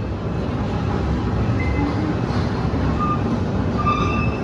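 Steady low rumble of heavy demolition machinery working, with a few short high squeaks near the end.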